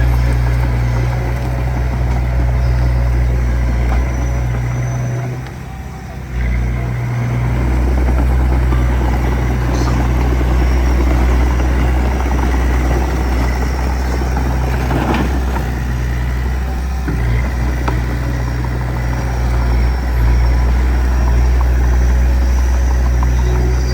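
Heavy diesel engine of earthmoving machinery running steadily under work. It falls away briefly about five seconds in and comes back about a second and a half later. A sharp metallic knock sounds about fifteen seconds in.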